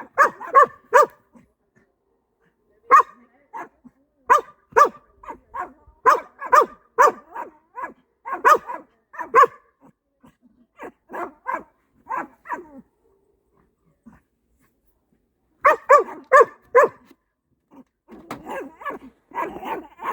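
Two dogs barking back and forth in runs of short, sharp barks, broken by pauses of a second or two.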